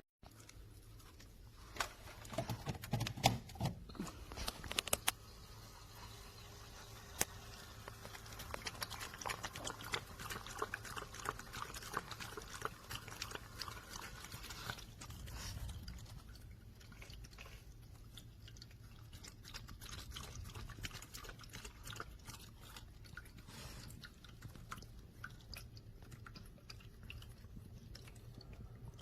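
A cat drinking from a pet water fountain: a long run of quick, small lapping clicks, with a few louder knocks in the first few seconds.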